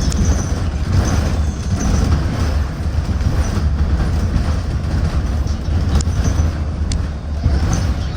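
City transit bus heard from inside while driving: a steady low engine and road rumble, with a few short rattles near the end.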